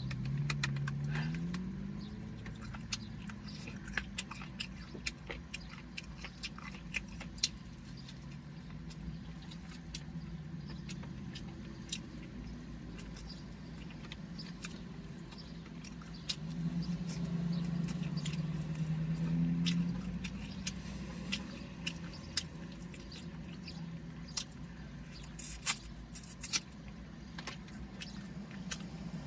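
Close-up chewing of rotisserie chicken, with many small crisp clicks as the skin and meat are bitten and torn. Low closed-mouth humming twice, at the start and again about two-thirds of the way through.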